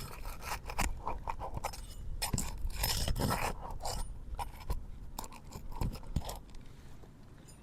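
Brittle asphalt shingles crackling and scraping as they are pried up with a roof snake to get at the nails, a string of irregular crunches, clicks and scrapes.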